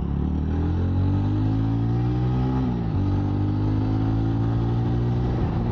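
TVS Ronin 225's single-cylinder engine accelerating hard: the revs climb, drop at an upshift about three seconds in, then climb again and drop at a second shift near the end.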